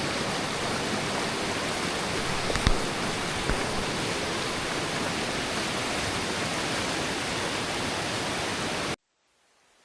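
River water rushing steadily, with one brief knock under a third of the way in. The sound cuts off suddenly about a second before the end.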